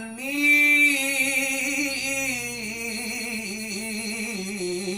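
A man singing an Arabic devotional qasida, drawing out one long ornamented melisma with a wavering vibrato; it swells loudest about half a second in.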